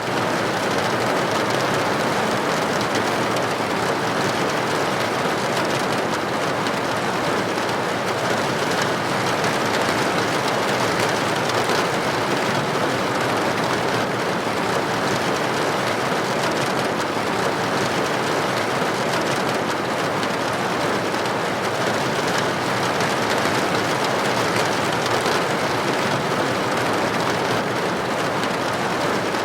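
Rain falling against a building window: a steady, dense hiss of droplets with no let-up.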